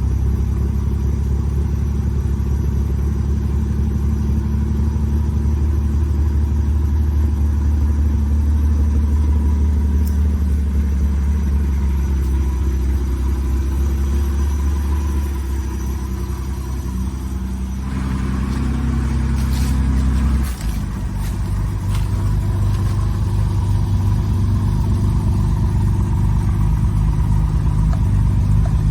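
Jaguar E-Type's straight-six engine, fitted with triple SU carburettors and a Borla Corsa SS exhaust, idling steadily shortly after a cold start. About two-thirds of the way through, the idle note changes suddenly and settles into a choppier, pulsing beat.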